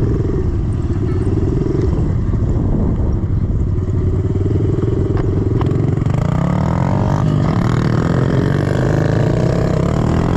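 110cc single-cylinder four-stroke pit bike engine running under load while riding a dirt track. Its pitch rises and falls with the throttle, most clearly from about six seconds in.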